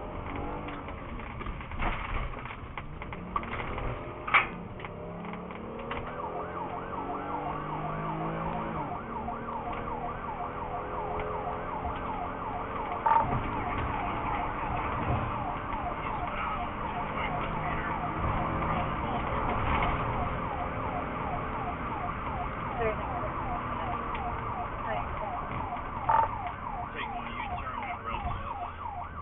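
Police car siren sounding in a fast, repeated up-and-down yelp, heard over vehicle noise, with a few sharp knocks.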